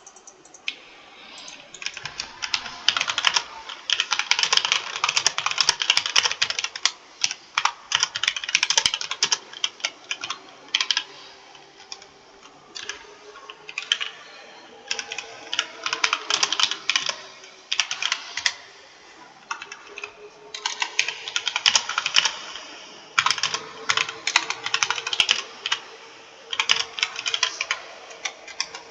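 Computer keyboard being typed on in fast runs of key clicks, broken by a few short pauses.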